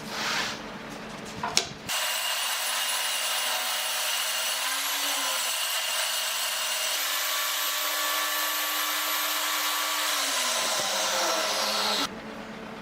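Power tool running on wood, a steady noisy whine that lasts about ten seconds, with its pitch falling near the end as the motor winds down before it cuts off. A few knocks come just before it starts.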